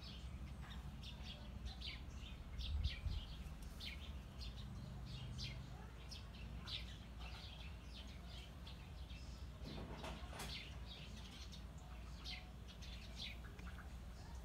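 Small birds chirping repeatedly in the background over a steady low rumble, with a brief low bump about three seconds in.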